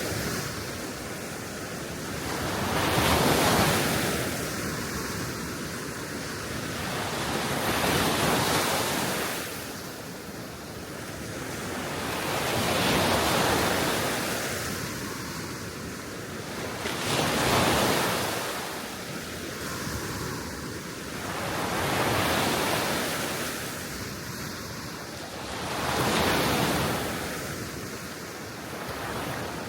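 Gentle Baltic Sea waves washing onto the shore, a soft rush that swells and falls away about every four to five seconds. Wind blows steadily underneath.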